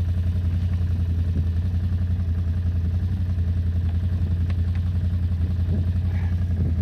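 Can-Am ATV engine running at a steady idle, an even low hum with a fine regular pulse and no revving.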